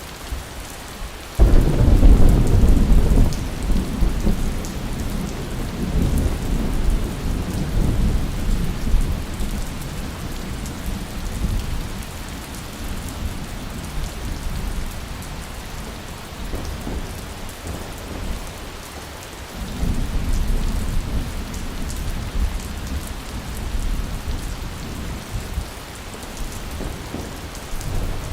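Steady rain with rolling thunder: a sudden loud thunderclap about a second and a half in that rumbles away over several seconds, and a second, softer rumble of thunder about two-thirds of the way through.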